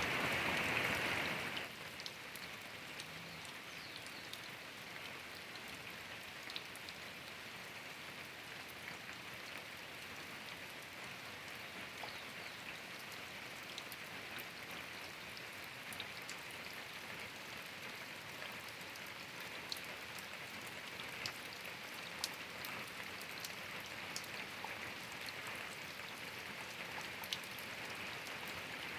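Steady rain falling, a fine hiss with scattered individual drops ticking on surfaces, louder for the first second or two.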